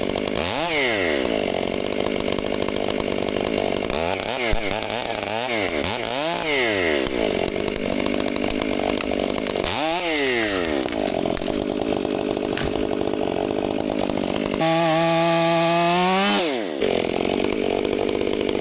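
Chainsaw engine revving up and down again and again, its pitch sweeping up and falling back every second or two. Near the end it holds a louder, steady high pitch for about two seconds before dropping back.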